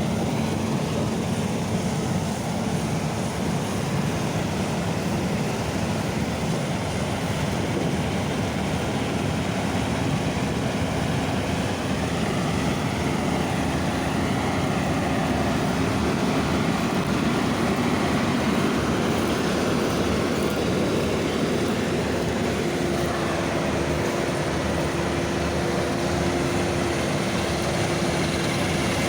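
Heavy farm machinery running steadily: the diesel engine and machinery noise of a tractor or combine harvester at work. A faint steady whine sits under it and shifts to a higher pitch about two-thirds of the way through.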